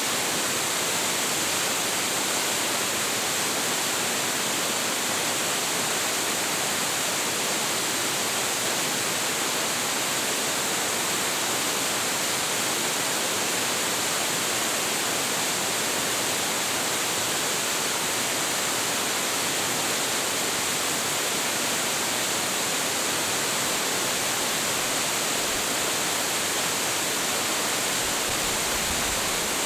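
Hiji Great Falls, a 25.7 m waterfall with a heavy flow, roaring in an even, unbroken rush of falling and splashing water.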